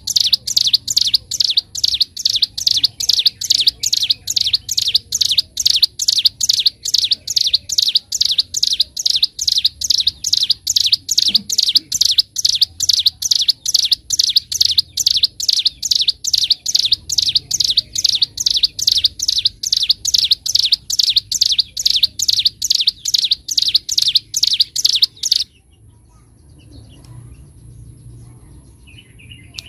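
Ciblek gunung songbird singing a fast, non-stop string of sharp, high, repeated notes, about three a second. This is the unbroken 'ngebren' (drilling) song of a bird in full song. The song breaks off for a few seconds near the end, then starts again.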